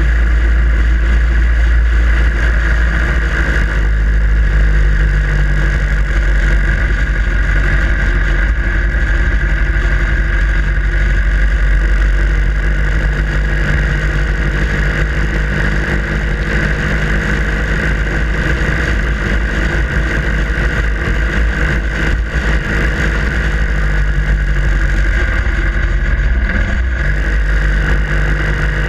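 Harley-Davidson Sportster Iron 883's air-cooled V-twin running steadily under way, with heavy wind rumble on the microphone. The engine note shifts slightly in pitch now and then.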